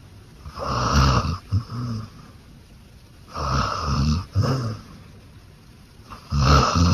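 Beagle snoring in her sleep: three snores about three seconds apart, each a longer snore followed by a brief shorter one, the last starting near the end.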